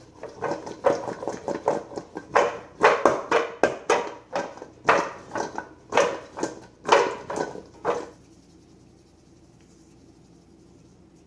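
A dog making a run of short vocal sounds, about two a second, for roughly eight seconds, then falling quiet; typical of a pet pestering someone who is eating.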